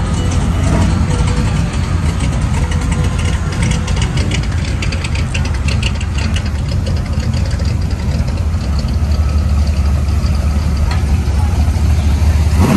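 Classic car engine running at low speed with a steady low rumble that grows louder over the last few seconds.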